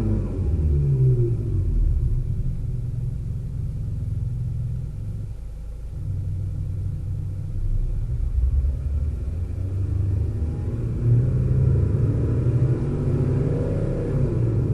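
Mazda CX-5's THOR active sound exhaust, a speaker-generated imitation sports-car exhaust note, heard inside the cabin while driving. It is a deep rumble whose pitch drops in the first second as revs fall, holds fairly steady, then rises and falls again near the end.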